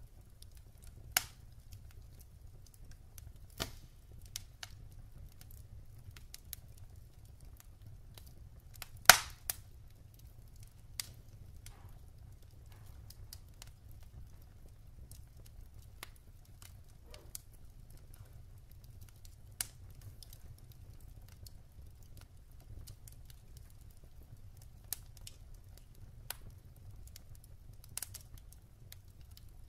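Wood fire crackling in a fireplace: scattered sharp pops and snaps of burning logs over a low, steady rumble, with the loudest pop about nine seconds in.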